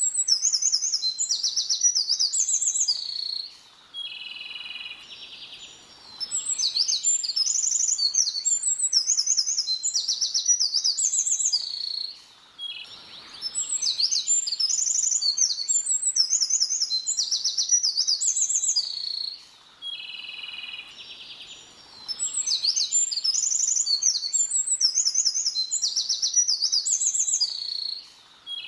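A small songbird singing rapid, high-pitched chirps and trills in long strings, broken by short pauses about every eight seconds, with the same sequence recurring each time.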